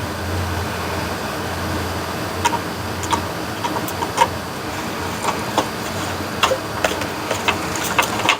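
Irregular light clicks and ticks of a hand screwdriver turning screws and of plastic parts being handled as an instrument cluster is screwed back together, over a steady low hum that fades near the end.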